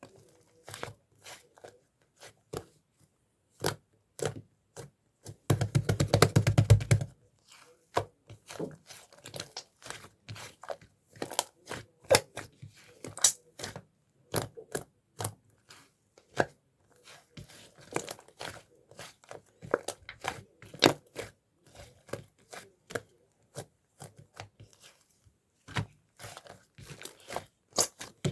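Clay slime being pressed, folded and stretched by hand, giving a string of irregular sharp clicks and small pops. About five and a half seconds in comes a dense run of rapid pops with a low squelch, lasting about a second and a half.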